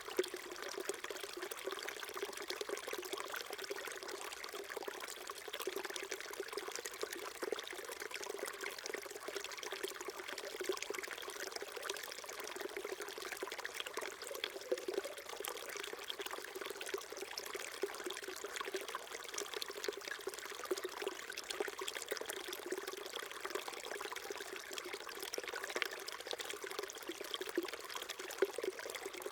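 Small mountain stream trickling and babbling over rocks, a steady flow of water with constant bubbling and splashing.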